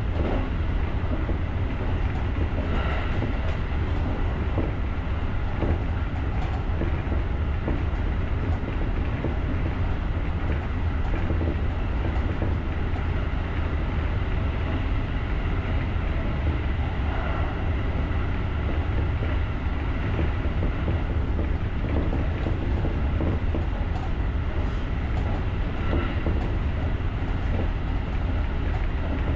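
JR rapid electric commuter train running steadily, heard from the driver's cab: a constant low rumble of wheels on rail with a few faint knocks from the track.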